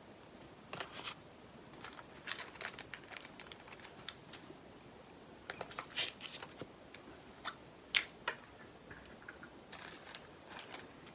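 Scattered small clicks, taps and crinkles of handling: plastic bags of diamond-painting drills being opened and emptied into small plastic storage pots.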